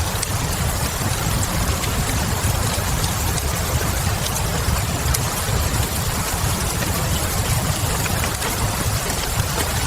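Wood fire crackling in a fireplace, with scattered faint crackles over a steady low rumble, layered with a constant hiss of falling rain.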